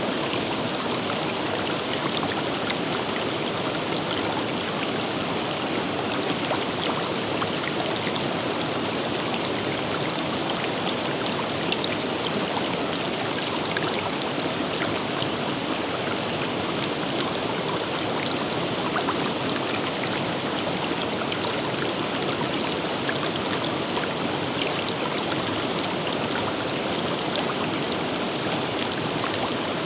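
A river running steadily over rocks, a continuous rushing with small splashes and gurgles throughout.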